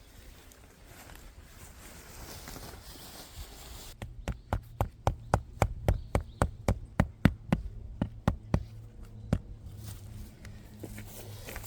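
Soft rustling, then from about four seconds in a quick, even run of about twenty sharp knocks, three to four a second, which stops a couple of seconds before the end; a low steady hum sits underneath.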